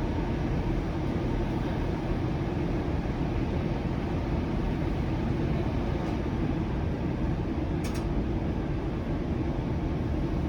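Steady low rumble and hum inside a Flexity Outlook low-floor streetcar, with one short click about eight seconds in.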